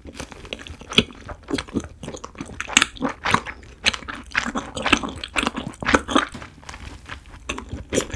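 Close-miked chewing of a mouthful of grilled cheese: irregular wet crunches and clicks, several a second. The cheese is firm and squeaky against the teeth.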